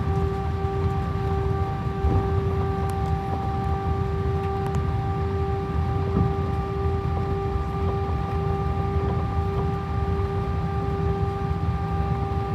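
Airbus A319 jet engines heard from inside the cabin: a steady low rumble under a constant droning tone with its overtones.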